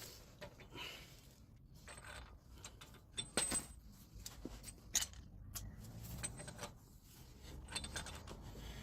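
Light metallic clinks and taps from hand tools and hub parts being handled while the hub nut is fitted, with a few sharper clicks about three and a half and five seconds in.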